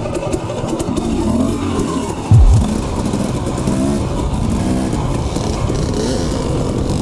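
Dirt bike engine running while riding, its pitch rising and falling with the throttle. A short, heavy low thump comes about two and a half seconds in.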